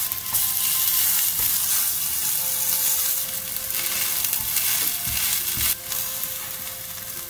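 Lentil and spinach burgers sizzling steadily in olive oil in a hot nonstick frying pan. A slotted spatula works among them, with a few soft knocks against the pan a little past halfway.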